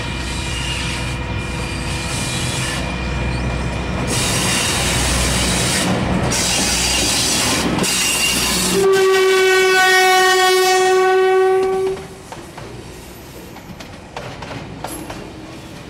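Diesel shunting locomotive passing close with its engine running in a low rumble, then one long steady horn blast about nine seconds in that lasts about three seconds and is the loudest sound. After the horn, container wagons roll by more quietly, with clicks of wheels over the rail joints.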